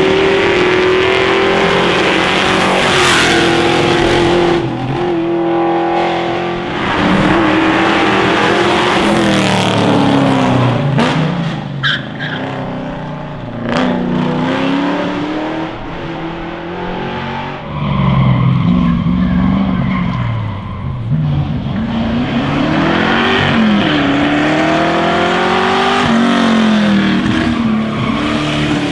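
Racing car engines running hard on a hillclimb, revving up and dropping through repeated gear changes, the pitch rising and falling several times.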